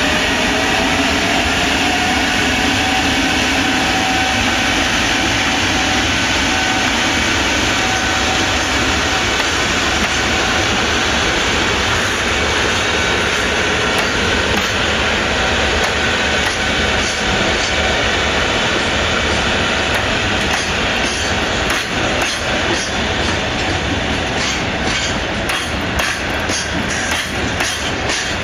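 Freight train passing close by: a loud, steady rumble with faint whining tones through the first half. From about two-thirds of the way through comes a rhythmic clatter of wagon wheels over rail joints.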